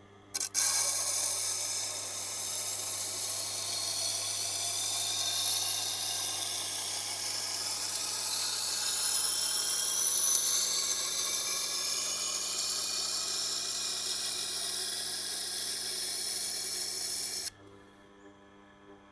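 Steel cleaver edge being ground against a coarse 80-grit sharpening wheel, a continuous grinding rasp that starts about half a second in and stops suddenly near the end, with a faint steady motor hum beneath. The coarse grit is removing steel to reshape a chipped bevel.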